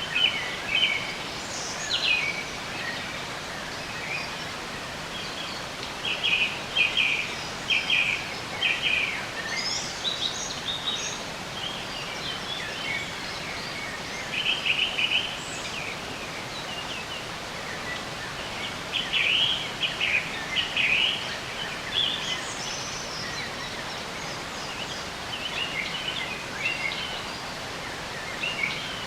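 Songbirds chirping in short bouts of quick repeated notes every few seconds over a steady background hiss.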